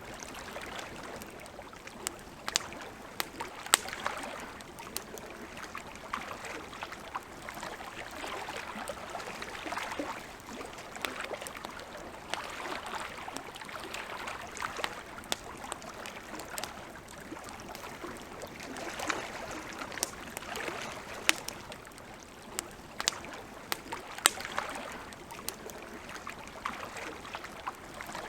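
Campfire crackling: sharp, irregular pops and snaps, a few louder than the rest, over a steady, gently swelling hiss.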